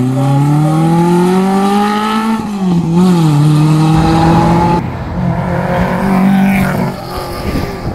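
Renzacci-prepared engine of a Simca 1000 Rallye hill-climb car accelerating hard, its pitch rising steadily for about two and a half seconds before a quick dip at a gear change, then pulling again. About five seconds in the sound cuts to another engine running at a steadier, rougher note.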